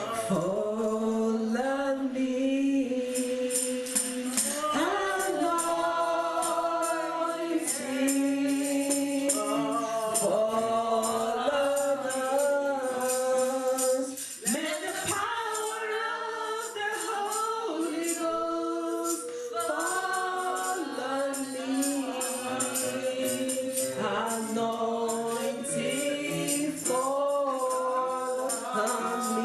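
A group of voices sings a slow worship song, holding long notes, with a tambourine shaken in rhythm alongside.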